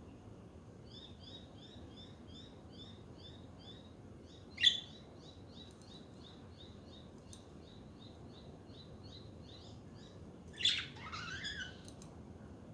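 Budgerigars chirping: a long run of short high chirps repeated evenly, about three a second, with a single loud sharp call about five seconds in and a louder, longer call sliding down and up near the end.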